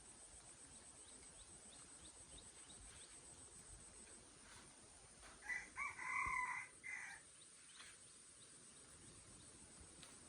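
A rooster crowing once, about five and a half seconds in: a few short notes, then a longer held one and a short closing note. Underneath is a faint, steady high-pitched whine.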